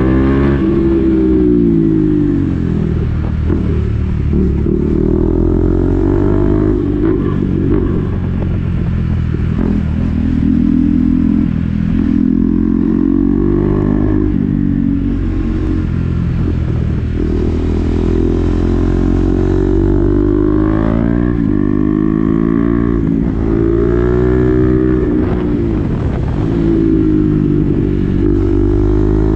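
KTM Duke 390's single-cylinder engine breathing through an SC-Project exhaust with the dB-killer fitted, heard from the rider's seat. The revs climb and fall again and again as the bike accelerates and rolls off.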